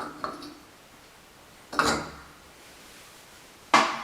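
A few small clicks, then two sharp clacks about two seconds apart, each with a short ring: hard parts knocking as a shower valve's handle is removed.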